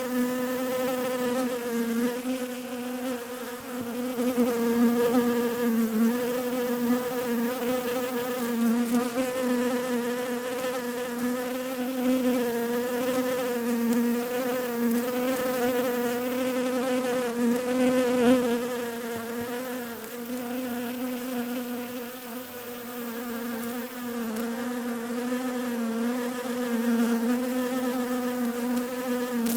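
Bees buzzing in a continuous low hum, its pitch wavering slightly.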